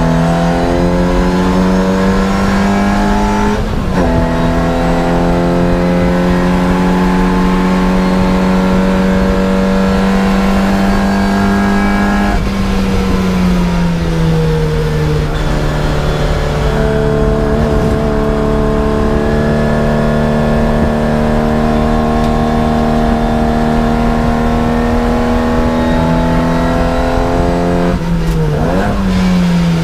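Race car's engine heard from inside the cabin, running hard at speed with its pitch climbing slowly. The note drops sharply for a moment about four seconds in, as at a gear change, sinks gradually midway as the throttle eases, and dips and rises again near the end as the car slows.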